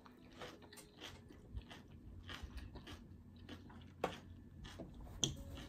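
Close-up chewing of a mouthful of salad with Parmesan crisps: a run of irregular crisp crunches, with two sharper ones about four and five seconds in.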